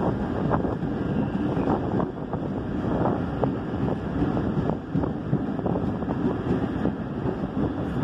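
Mumbai suburban local train running, a steady rumble of wheels on rails, with wind buffeting the microphone at the open carriage door.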